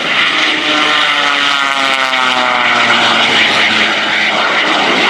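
Jet Waco, a modified 1929 Taperwing Waco biplane with a radial piston engine and an underslung turbojet, flying past on a low photo pass; its propeller and engine note falls in pitch as it goes by.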